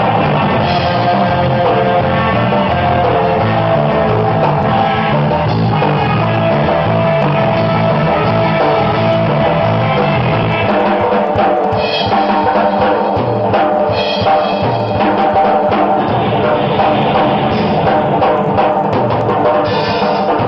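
A surf rock band playing an instrumental live: a guitar melody over a repeating bass line and drum kit, with cymbal crashes in the second half.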